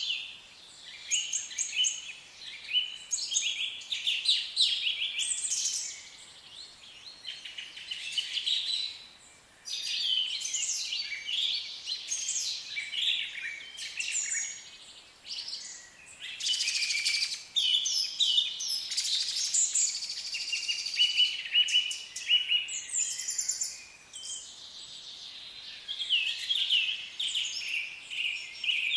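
Several small birds chirping and singing, short calls and quick trills overlapping in a busy chorus, with a few brief lulls.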